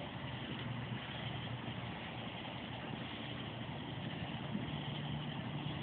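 Steady background hum and hiss, like a motor running, with no bang or burst.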